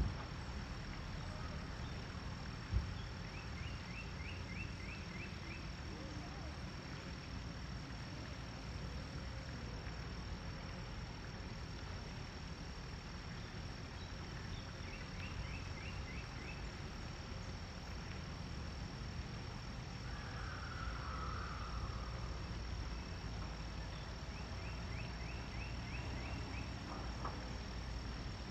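Steady high-pitched insect trill, with a short run of rapid clicking calls three times, roughly ten seconds apart, over a low background rumble.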